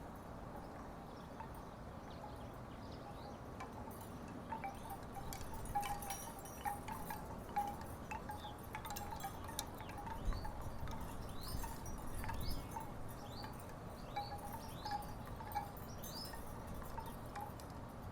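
Wooden tiki wind chimes knocking together irregularly in a breeze, with hollow, mid-pitched clonks over a low rush of wind. In the second half, a run of short, high, rising chirps sounds over the chimes.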